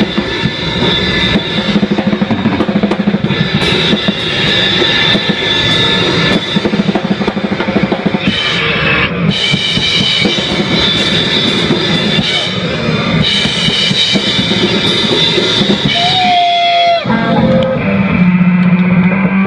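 Live noise-rock music: a drum kit playing under dense, harsh noise with held high and low tones. About sixteen seconds in a pitched tone bends and the sound thins briefly, then a steady low drone carries on with the noise.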